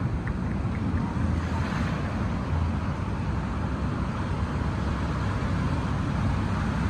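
Steady wind buffeting the microphone, with a hiss of ocean surf behind it.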